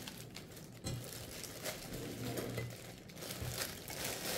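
Faint rustling and a few light knocks of packaging and fan parts being handled.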